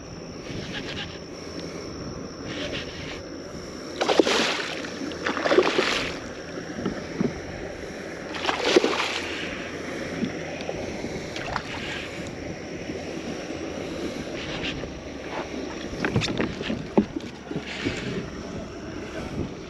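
Wind on the microphone and water lapping at a kayak hull, broken by three loud splashes of a hooked redfish thrashing at the surface during landing. A few sharp knocks near the end.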